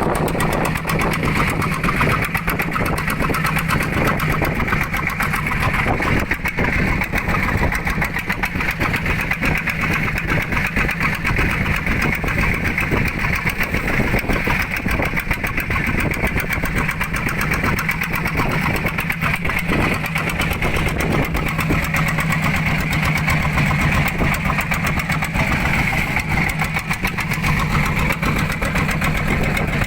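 Fishing boat's engine running steadily, a constant low hum over a noisy rush.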